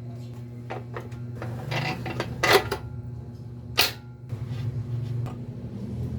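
Several sharp metallic clicks and clanks, the loudest about two and a half and nearly four seconds in, from tools and parts being handled, over a steady low hum.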